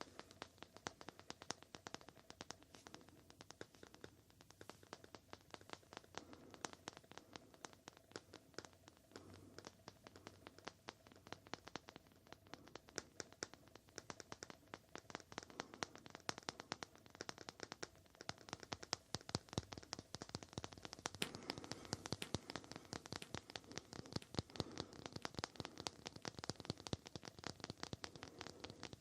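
Rapid light tapping and scratching on a hard surface, many quick taps a second without pause, a little busier in the second half.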